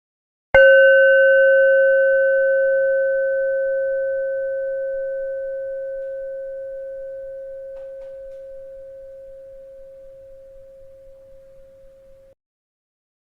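A bell struck once, ringing with a clear tone and overtones and fading slowly for about twelve seconds before cutting off suddenly.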